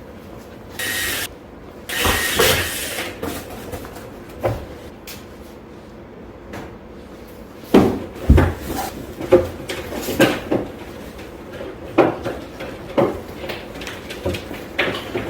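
Computer hardware being handled: irregular knocks and clunks, about one a second in the second half, after a short rustling burst near the start.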